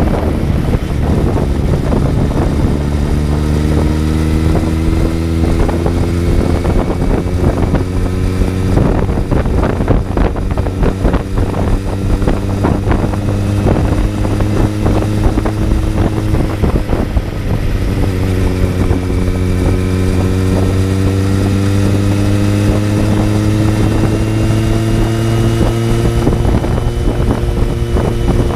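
Kawasaki Z900's inline-four engine under steady acceleration from the rider's seat, its pitch climbing slowly. Past halfway the pitch drops at an upshift, then climbs again, with wind rushing over the microphone.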